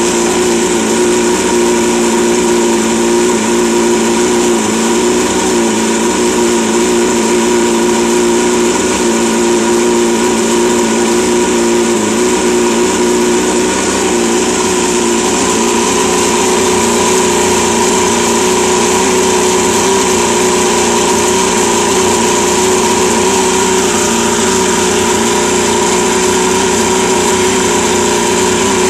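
Mercury Mark 30H two-stroke four-cylinder outboard motor running steadily at a constant speed, its powerhead freshly rebuilt with new fuel and ignition systems.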